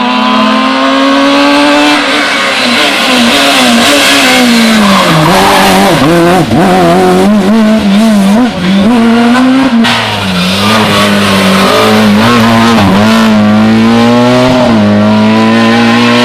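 Rally car engine at high revs on a special stage. The revs drop and waver through a corner about five seconds in, with a few sharp cracks, then climb again in steps through the gears.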